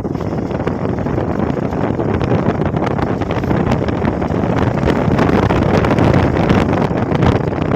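Wind rushing over the microphone of a rider on a moving motorcycle, with road and engine noise beneath; it swells louder a little past the middle.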